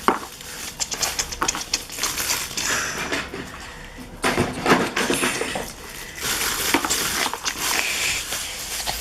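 Die-cast metal toy vehicles and their parts being handled, with scattered metallic clinks, clicks and short scrapes.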